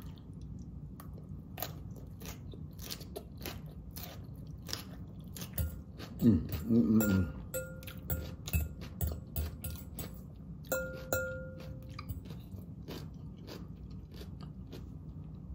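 Close chewing and crunching of raw salad vegetables (lettuce, red cabbage, carrots), crisp crunches throughout. A short hummed 'mm' comes about six seconds in, and a fork clinks the glass mixing bowl twice, each clink ringing briefly.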